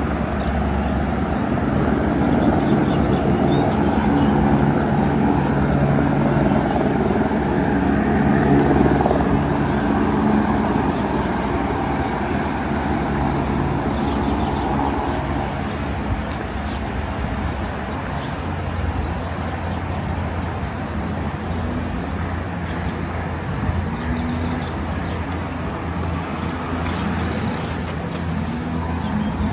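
A vehicle engine humming steadily, loudest in the first half and easing off after about fifteen seconds.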